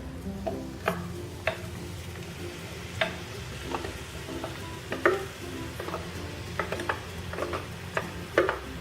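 A utensil stirring finely chopped vegetables in olive oil in a pan as they sweat, the sizzle broken by about a dozen irregular scrapes and knocks against the pan.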